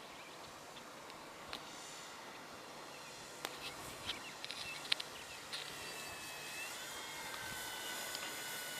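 Faint whine of an electric RC model airplane's motor, a few steady high tones that shift slightly in pitch and get a little louder from about halfway through. Before it, a few short clicks and chirps over outdoor background noise.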